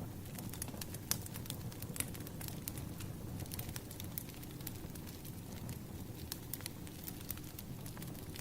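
Firewood logs burning, crackling with irregular sharp pops over a steady low rumble of the flames; the loudest pops come about a second and two seconds in.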